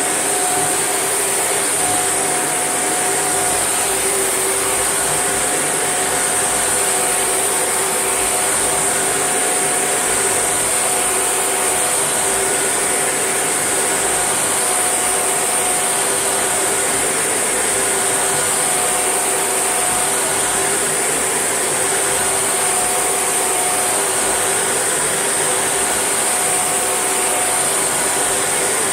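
Shark NV801UK vacuum cleaner running steadily, its motor giving a constant whine with a strong high-pitched hiss and no change in speed.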